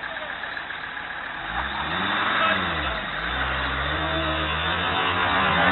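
UAZ-469 off-roader's engine revving up about a second and a half in, rising and falling once, then held at high revs with the pitch wavering as it pulls under load.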